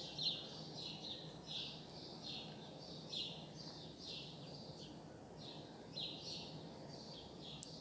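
A bird chirping repeatedly in short high chirps, roughly one every half second to second, over the faint low rumble of a passing container freight train.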